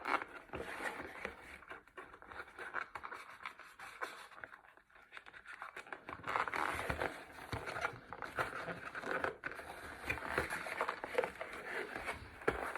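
Handling of an action figure and its plastic and cardboard packaging: irregular scratching, scraping and small clicks, with a quieter stretch a little before the middle.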